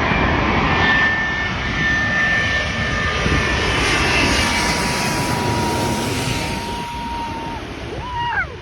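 Jet airliner passing low overhead: a loud jet roar with steady whining tones, easing off over the last couple of seconds.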